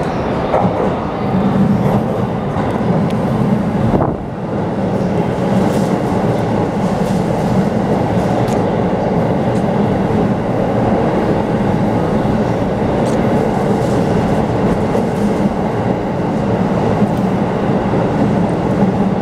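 Keikyu 2100-series eight-car electric train passing through the station without stopping: a steady, loud running noise on the rails, with a single sharp knock about four seconds in.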